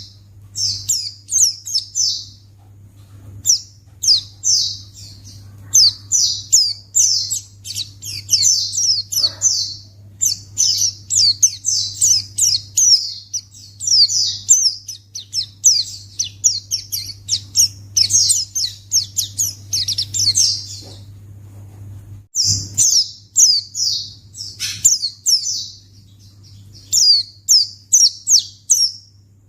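White-eye (pleci) singing a fast, continuous run of high, sharply falling chirps, with a brief pause about two-thirds of the way through. A steady low hum runs underneath.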